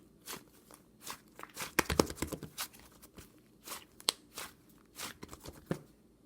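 A series of short, irregular crunching rustles, with a quick cluster of sharp clicks about two seconds in.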